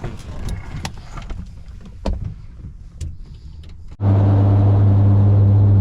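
Light clicks and knocks of doors and seat fittings in a helicopter cabin, then about four seconds in the steady drone of a Robinson R44's piston engine running cuts in abruptly and holds loud and even.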